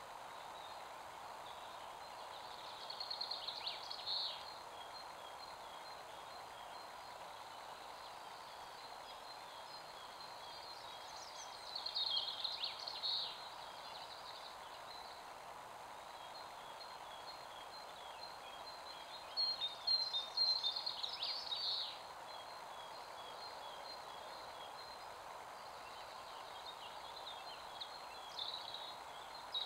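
A songbird singing short, quick phrases of high notes, four times about eight seconds apart, with faint repeated chirps between, over a steady background hiss.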